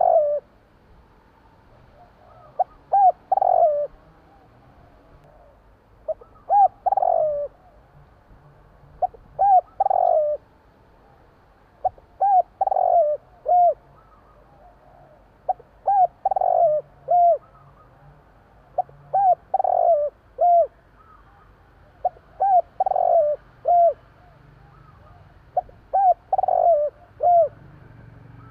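Spotted dove (tekukur) cooing its song: a short phrase of several coos, repeated about every three seconds.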